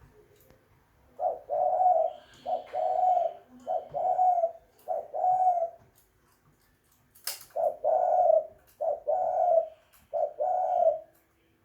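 Spotted dove cooing: two phrases of four or five low, repeated coo notes each, a second or two apart. A sharp click sounds just before the second phrase.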